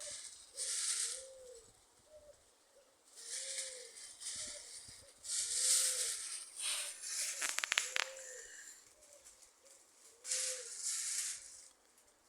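A dove cooing over and over, short low arched notes about once a second. Several louder bursts of hissing, rustling noise come and go over it, the loudest sounds here, with a quick rattle of clicks about two-thirds of the way through.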